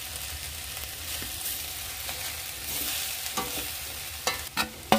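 Momo filling of crushed soya, onion and tomato sizzling in a stainless-steel kadhai, with a spatula stirring it. A few sharp knocks of the spatula against the pan come in the last couple of seconds, the loudest at the very end.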